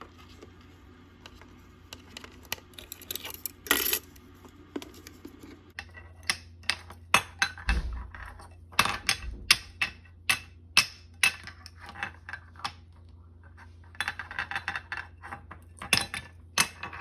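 Kitchen clatter: a run of sharp clicks and knocks, like utensils and dishes being handled, starting about a third of the way in and thickest near the end, over a faint steady hum.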